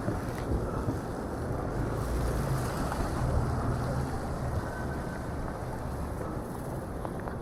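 Steady city street ambience: a low rumble of traffic, with wind on the microphone.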